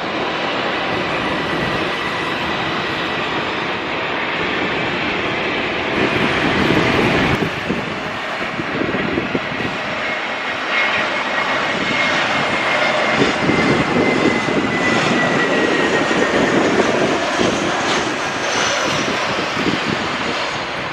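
Jet airliner engines running loud, with a steady high whine that slowly falls in pitch in the second half.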